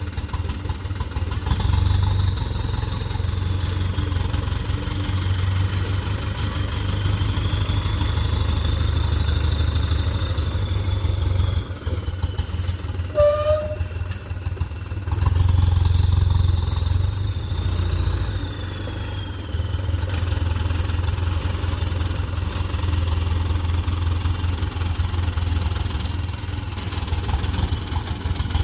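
Dump truck's diesel engine running with a deep, steady rumble that swells louder about halfway through. A high whine rises and falls above it twice, and a short tone sounds just before the engine swells.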